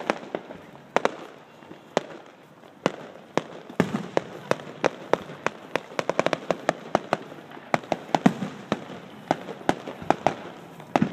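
Aerial fireworks going off: a string of sharp bangs and crackles. They are spaced out at first, pack into a rapid run of pops in the middle and thin out again near the end.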